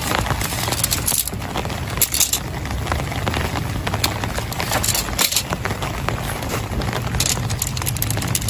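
Heavy rain: many sharp, irregular taps of drops striking close to the microphone over a steady low rumble.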